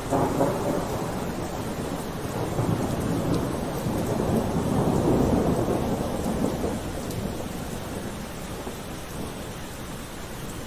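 Steady rain with thunder: a sharp crack at the start, then a low rolling rumble that swells around the middle and dies away toward the end.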